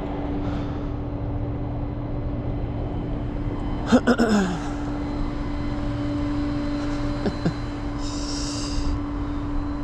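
A vehicle engine running steadily with a constant hum, with a few sharp clicks about four seconds in and a short hiss near the end.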